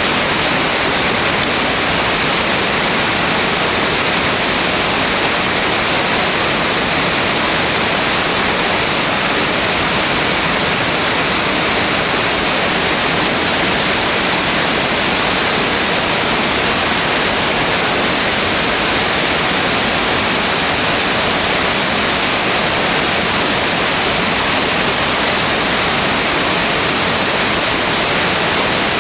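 Loud, steady rush of water pouring over rocks.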